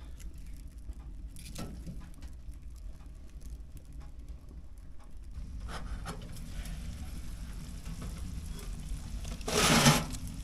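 Food sizzling as it cooks on a wood-burning cookstove, with scattered small clicks and a low steady rumble, and a brief louder burst of sound near the end.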